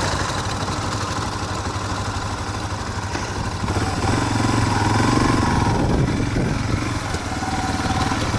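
Ural 650cc sidecar motorcycle's air-cooled flat-twin engine running steadily.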